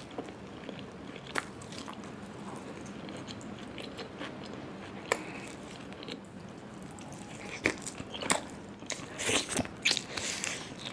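Faint close-miked eating sounds: scattered bites and wet chewing clicks, growing busier near the end.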